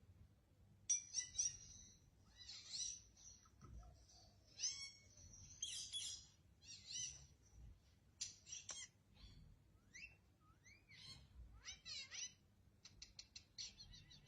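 Parrots calling: a string of short, high chirps and squawks starting about a second in, ending with a quick run of short chirps.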